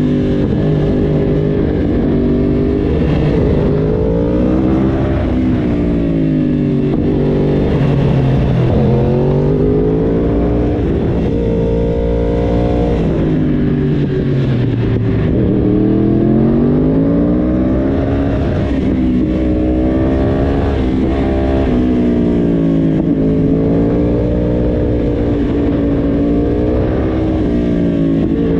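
Yamaha YZF-R1 crossplane inline-four motorcycle engine heard onboard. Its revs drop and climb again several times as the rider eases off and accelerates.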